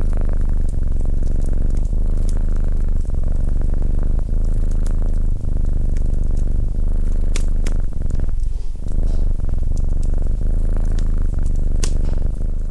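Domestic cat purring close to the microphone: a loud, steady low rumble of rapid pulses that thins briefly a little past the middle. A few sharp crackles from a wood fire sound over it.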